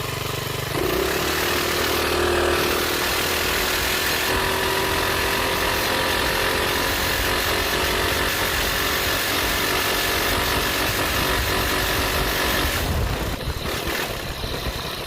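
Coleman CT200U-EX minibike's small single-cylinder four-stroke engine pulling along a trail: the revs rise about a second in, hold steady, then drop back near the end.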